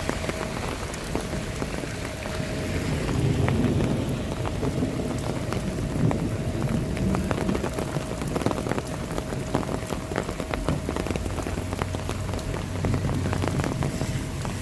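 Steady rain with many separate drops striking close by, over a low rumble that swells a few seconds in and again near the end.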